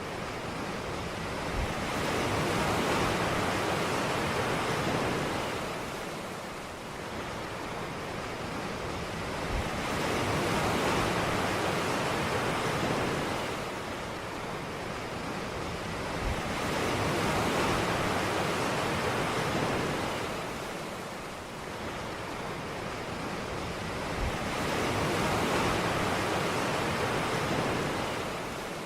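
Ocean surf breaking on a beach: four waves roll in about eight seconds apart, each starting with a soft low thump, swelling into a long hiss of wash and then ebbing.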